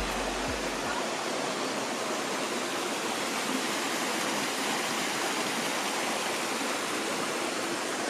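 Creek water rushing at the Devil's Bathtub swimming hole: a steady, even rush of running stream water.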